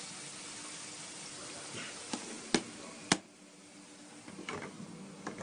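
Thick masala sizzling in a steel kadai as a wooden spatula stirs it, a steady hiss. About two and a half and three seconds in come two sharp knocks, after which the hiss suddenly drops to a quieter simmer.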